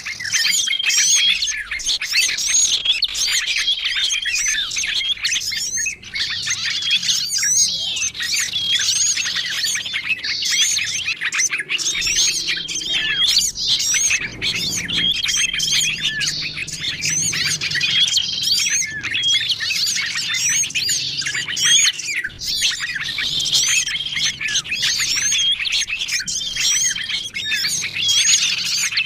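Dense, unbroken chorus of many small songbirds chirping and trilling over one another, with a short flat whistled note recurring every few seconds: a mixed small-bird lure recording (suara pikat) used to call wild birds in.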